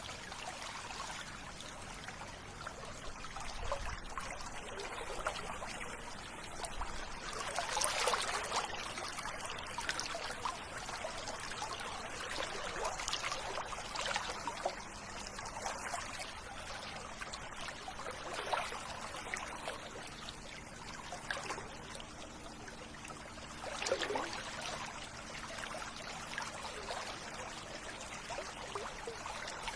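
River water flowing and splashing steadily, with irregular louder surges, the strongest about eight seconds in and again near twenty-four seconds.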